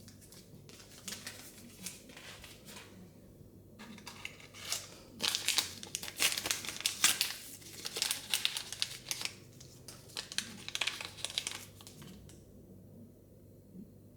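Plastic wrapping crinkling and tearing as a Mini Brands surprise ball and its tiny items are unwrapped by hand: scattered crackles at first, a dense run of crinkling from about five seconds in, then stopping about two seconds before the end.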